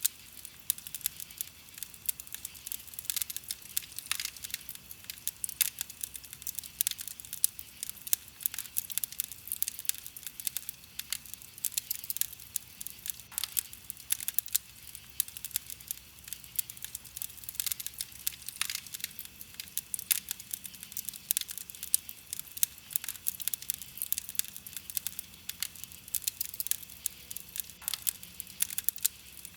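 Wood campfire crackling: a steady run of small sharp pops and snaps, many a second, with an occasional louder pop.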